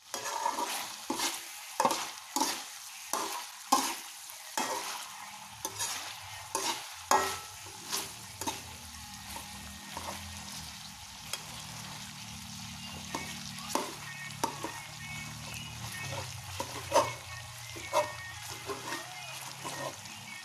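Food frying and sizzling in a pan while it is stirred, with a utensil knocking against the pan over and over, most often in the first half.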